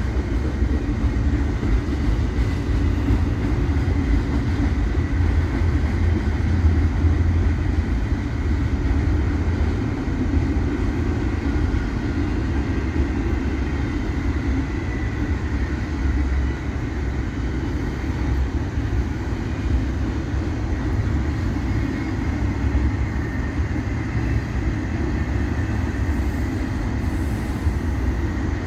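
Freight train cars rolling past with a steady low rumble of wheels on rails, and a faint high-pitched squeal coming and going on top.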